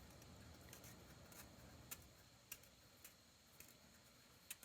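Near silence with a handful of faint, scattered clicks.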